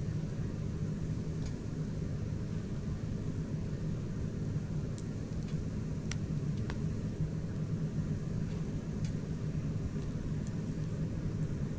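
Wood campfire burning with a steady low rumble of flames and occasional sharp crackles and pops, the strongest two close together about six seconds in.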